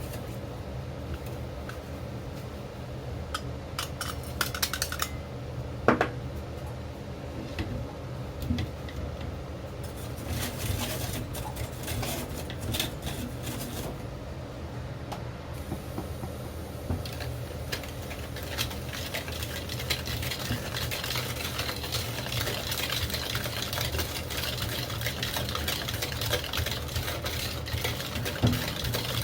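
Kitchen utensils clinking and scraping against bowls and pots, with scattered sharp clicks over a steady low hum.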